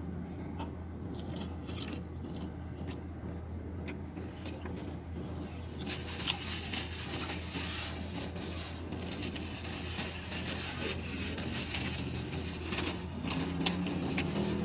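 Chewing a last bite of burger over the steady low hum of a car's interior. From about six seconds in, there are soft rustles and clicks of hands brushing together and a paper napkin crinkling.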